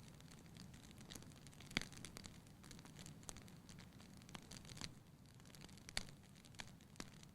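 Wood fire burning in a fireplace, crackling quietly with scattered sharp pops at irregular moments over a low steady hiss of flame.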